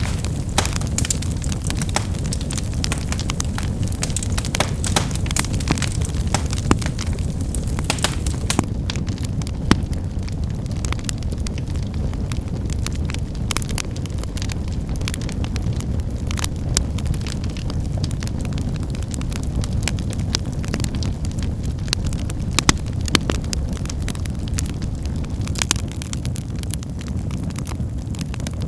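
Wood fire burning with a steady low rumble and irregular sharp crackles and pops of firewood snapping.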